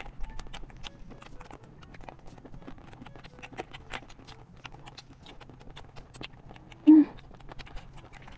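Close-miked crunching and chewing of chatpatey, a spiced puffed-rice snack: a steady run of quick crisp crackles. About seven seconds in there is one short, loud voiced sound from an eater.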